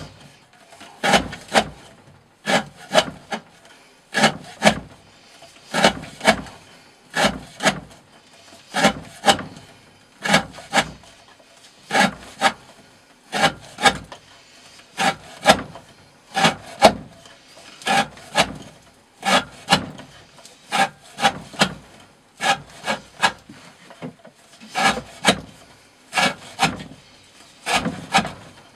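Green Thorn 95 Hati D2 knife slicing through 20 mm rope again and again, the blade striking the wooden cutting surface as it comes through. Each cut gives a pair of sharp cracks, about one cut every second and a half.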